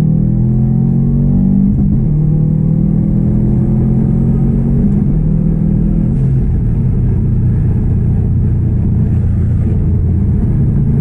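2016 Subaru WRX STI's turbocharged 2.5-litre flat-four engine pulling under way: its note climbs for the first couple of seconds, then holds fairly steady over a constant low road rumble.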